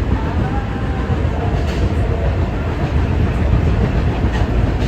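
Kita-Osaka Kyuko 9000 series subway train running at speed, heard from inside the car: a steady low rumble of wheels on rail, with a few sharp clicks from rail joints.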